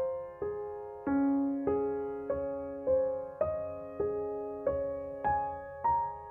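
Background music: a slow, gentle piano melody of single struck notes, each fading away, about one every half second.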